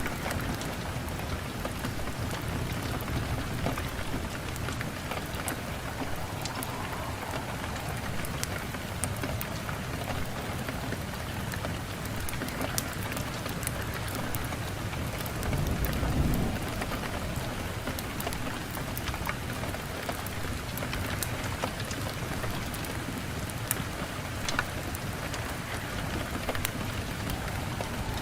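Wood fire burning in a fireplace: a steady hiss with frequent sharp crackles and pops, and a brief low rumble a little past halfway.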